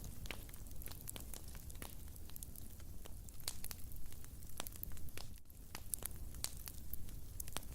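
Wood fire in a fireplace crackling, with frequent irregular sharp pops and snaps over a low steady rumble of flame. There is a brief lull about five seconds in.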